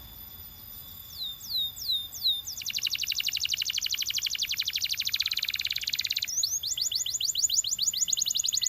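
Belgian canary singing: a few separate descending whistled notes, then a fast, even trill lasting about three and a half seconds, then a rapid run of quick swept notes.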